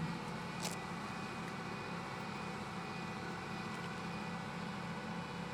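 Steady machine hum of a BS WindLine 16 5-axis woodworking machining center running, with several constant tones. A short hiss of air sounds about a second in.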